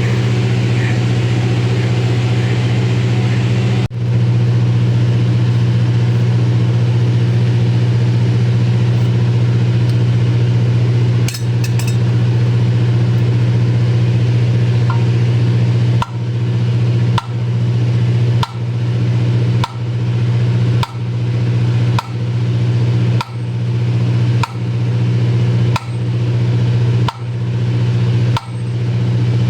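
A loud, steady, low mechanical hum, like a large engine or machine running. From about halfway, a sharp click comes regularly about every second and a quarter, each one briefly dipping the level.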